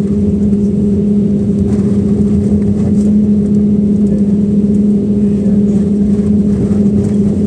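Steady vehicle engine drone: a constant low hum over a dense rumble, unchanging throughout.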